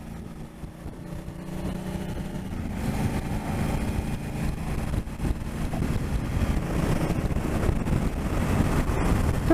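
Motorcycle engine running steadily on the road, with wind noise on the microphone, getting louder over the first few seconds.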